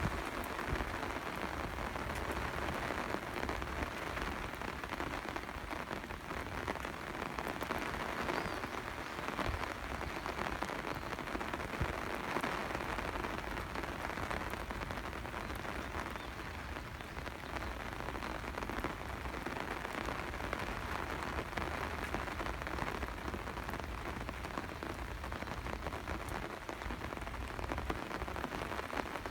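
Steady rain falling, a dense patter of many small drops at an even level throughout.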